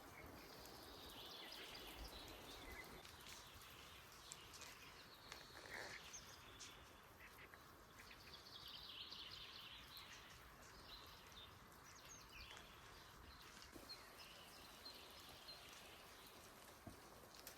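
Faint birdsong: short warbling phrases from a small bird, coming in three spells, over quiet background hiss with scattered small ticks.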